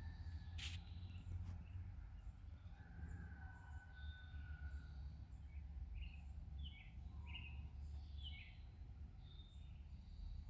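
Quiet outdoor ambience: small birds chirping and whistling, with a run of short chirps in the middle, over a steady low rumble. Two sharp clicks in the first second and a half.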